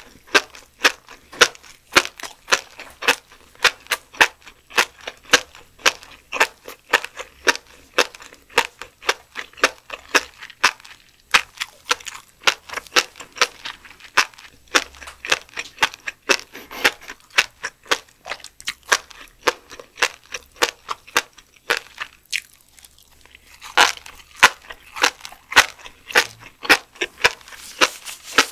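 Close-miked chewing of steamed lumpsucker roe (dochi-al jjim): a dense run of crisp crunching clicks, about three or four a second, with a short pause a little past twenty seconds in.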